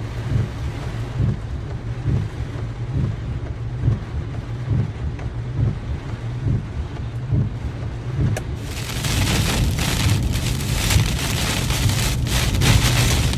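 Rain in a storm, with strong wind buffeting the microphone in a low rumble. About two-thirds of the way through the rain turns much heavier, into a dense hiss of drops.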